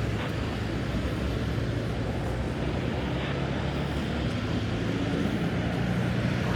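Steady low rumble of road traffic on a city boulevard, growing a little louder toward the end.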